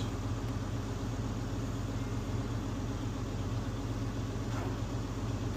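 Box truck engine idling steadily, heard from inside the cab.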